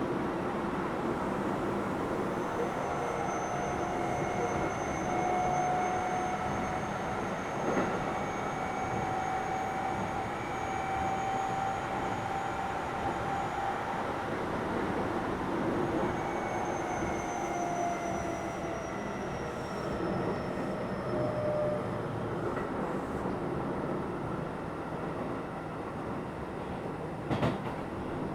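Keio 7000 series electric commuter train running along the track: a steady rumble of wheels on rail, with a thin electrical whine that creeps up slightly and then falls away about two-thirds of the way through. A couple of sharp clicks come near the end.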